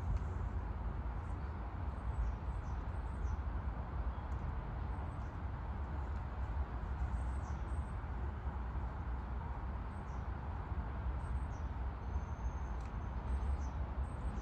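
Small birds chirping: short, high, falling calls scattered throughout, with one longer steady whistled note near the end. Underneath runs a steady low rumble of wind and distant traffic.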